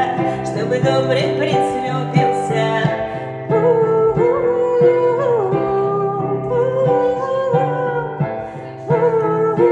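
Song with a sung melody over a plucked-string accompaniment.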